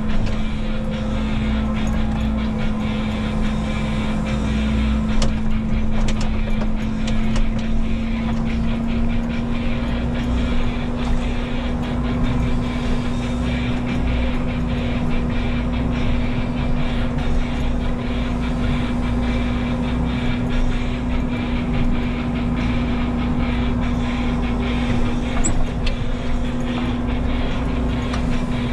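Menzi Muck walking excavator's diesel engine running steadily at an almost constant pitch, with frequent short knocks and clanks over it.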